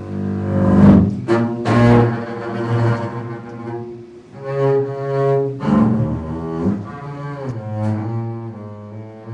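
Solo bowed low string instrument playing a contemporary piece: sustained low notes with strong overtones, cut by harsh scratchy bow attacks about one and two seconds in, then moving between held notes.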